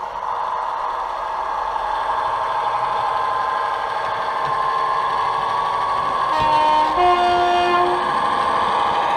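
DCC sound-fitted OO gauge model locomotive running, with a steady engine drone from its small onboard speaker. About six and a half seconds in it sounds a two-note horn, one note straight after the other.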